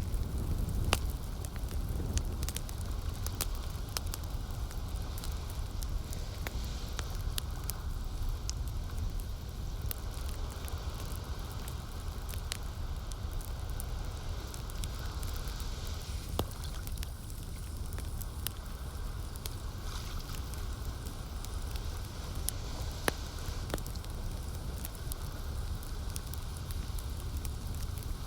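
Wood campfire crackling, with irregular sharp pops scattered throughout. Beneath it runs a steady low wash of lake water.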